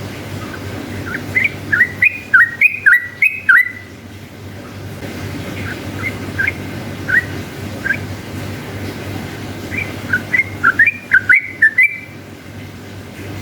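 Yellow-vented bulbul (trucukan) singing. There are two fast runs of short rising-and-falling whistled notes, one in the first few seconds and one near the end, with a few single notes between them. A steady low hum runs underneath.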